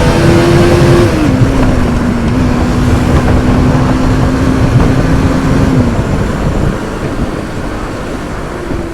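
Motorcycle engine running at a steady speed, with heavy wind rumble on the microphone. The engine note steps down about a second in, then dies away around six seconds as the throttle eases off.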